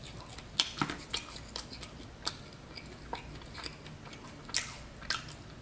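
A person chewing crusty New York-style pizza crust: irregular crisp crackles and clicks, a few a second, with quieter chewing between them.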